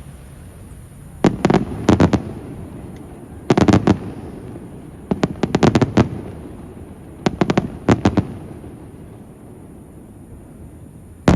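Aerial fireworks shells bursting in four quick clusters of sharp bangs about two seconds apart, each followed by a low rumbling echo. A single loud bang comes near the end.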